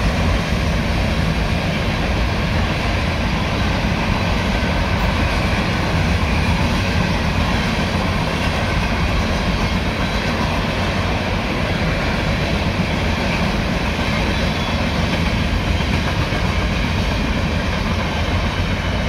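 Covered hopper freight cars rolling past on steel wheels and rail, a steady rumble with wheel clatter.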